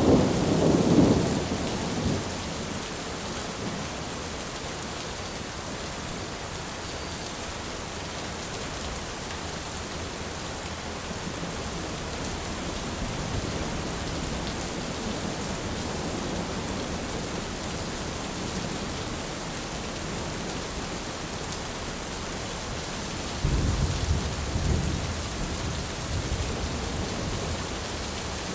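Thunderstorm: steady rain hissing on a surface, with a low rolling rumble of thunder fading in the first two seconds and another sudden clap rumbling for a few seconds near the end.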